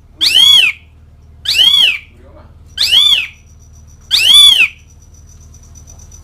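Asian pied starling (jalak suren) giving four loud calls about a second and a quarter apart, each note rising then falling in pitch. These are its calls to rival birds.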